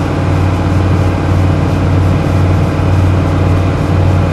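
Carbureted Oldsmobile 307 V8 with a four-barrel carburettor idling steadily while warming up after a below-zero cold start, still on fast idle with the choke on.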